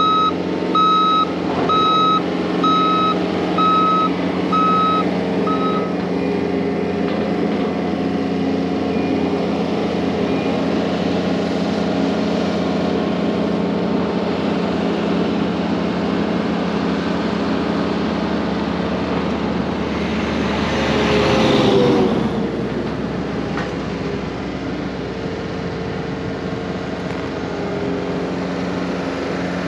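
Diesel construction machine running steadily while its backup alarm beeps about once a second, six times, stopping about six seconds in. About two-thirds of the way through, a brief louder rush with a falling tone rises over the engine.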